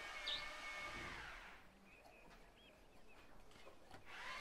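Faint outdoor ambience: a few birds chirping over a low steady hum that fades out about one and a half seconds in and comes back near the end.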